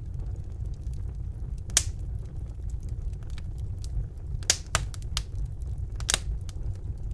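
Wood fire burning in a fireplace: a steady low rumble of the flames with irregular sharp crackles and pops, the loudest about two seconds in and a cluster of them past the middle.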